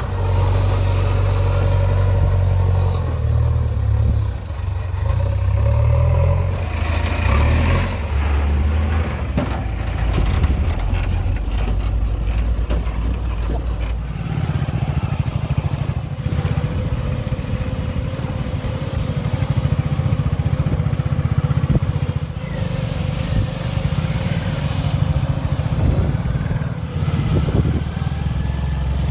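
Diesel engine of a JCB 3DX backhoe loader running under work load, revving up and down in the first part and then holding a steadier speed. There are scattered knocks and clatter.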